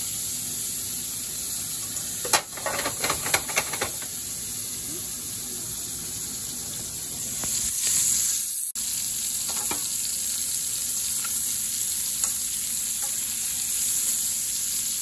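Sliced sausage sizzling as it fries in hot oil in a skillet, a steady hiss throughout. A couple of seconds in comes a quick run of clicks and scrapes from a utensil stirring the pieces in the pan.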